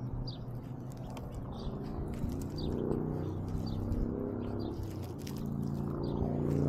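A bird giving short, high, falling chirps about once a second, over a low droning hum that swells twice.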